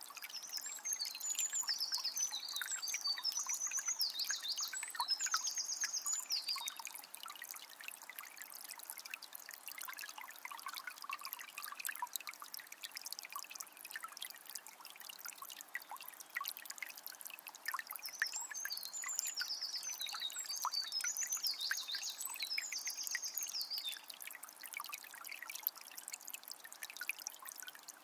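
Forest river trickling and splashing steadily over stones. A bird sings a fast, high warbling phrase twice, once near the start and again about two-thirds of the way through.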